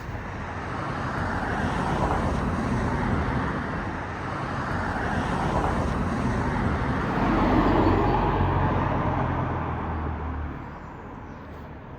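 Road traffic: motor vehicles passing close by with a rushing tyre noise and low engine hum, swelling twice and dropping away near the end.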